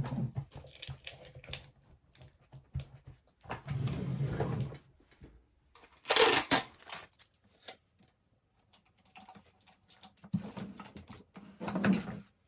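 Sticky tape and small items being handled on a tabletop: scattered light clicks and rustles, a longer scraping rustle about four seconds in, and one short, loud rasp of tape being pulled about six seconds in.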